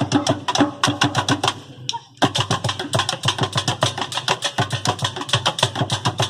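Street percussion ensemble playing drums and struck objects made from recycled materials in a fast, dense rhythm. Around two seconds in the playing thins and stops almost completely for a moment, then the whole group comes back in together.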